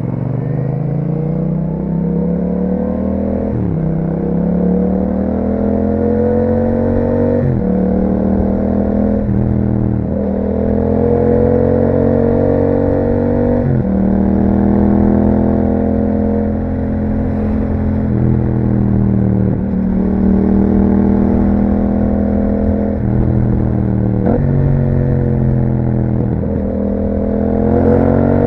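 Yamaha MT-07's 689 cc parallel-twin engine through an Akrapovič exhaust, accelerating under load through the gears: the pitch climbs and drops sharply at each upshift, about four times in the first half, then it cruises and eases off between further shifts.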